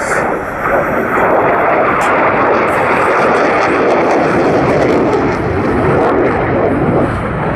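Loud, steady jet noise from an F-22 Raptor's twin Pratt & Whitney F119 turbofan engines in flight.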